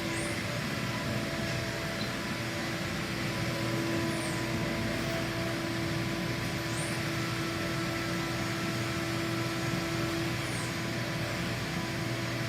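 Fanuc Robodrill CNC vertical mill running, a steady machine hum with a constant tone, and faint high chirps every two to three seconds.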